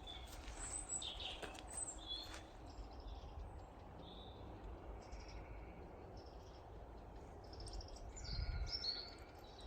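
Woodland birds chirping and singing in short phrases, over a steady low rumble of distant road traffic. A louder low rumble swells briefly near the end.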